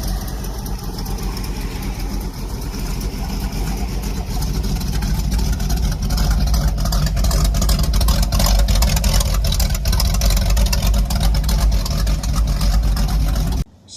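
Cammed small-block Chevy V8 running at idle with a lumpy beat, heard through true dual exhaust with cast manifolds. It grows louder a few seconds in, and the sound cuts off suddenly near the end.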